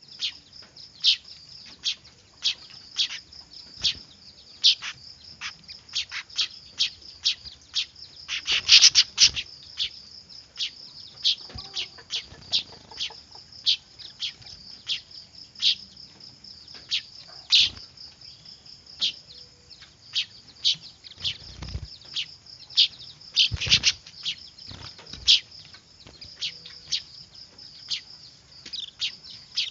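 Weaver bird (manyar) chicks calling noisily: a rapid string of short, sharp, high-pitched chirps, about two a second, over a steady high-pitched note, with busier flurries of calls twice.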